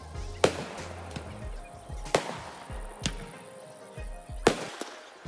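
Fireworks going off: a series of sharp bangs, the loudest about half a second, two seconds and four and a half seconds in, with smaller pops between, over music playing underneath.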